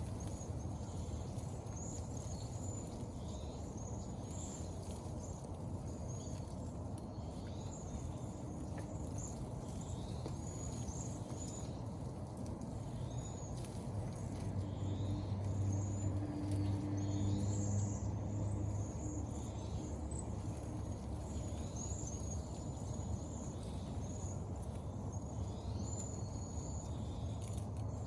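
Small birds chirping repeatedly while feeding: many short, high-pitched chirps scattered throughout. Beneath them is a steady low rumble, and a low drone swells for a few seconds around the middle.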